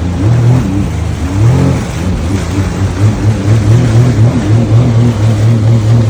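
Jet ski engine running under way, a steady low drone that wavers up and down in pitch, over a continuous rush of wind and water.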